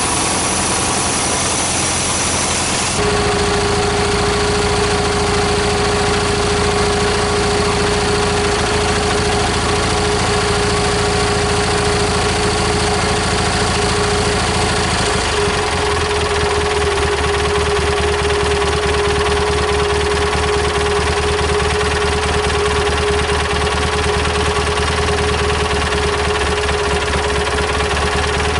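Cub Cadet 1811 garden tractor engine running steadily, now that it starts after the carburetor was cleaned. A steady whine joins about three seconds in, and the engine's note changes about halfway through.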